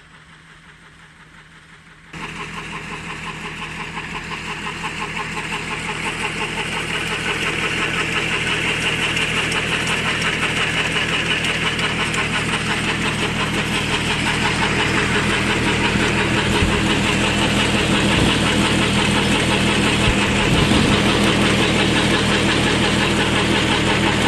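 24 HP Kubota tractor's diesel engine running while driving a 12.5 kVA alternator. It jumps much louder about two seconds in, climbs steadily over the next several seconds as it comes up to speed, then holds steady.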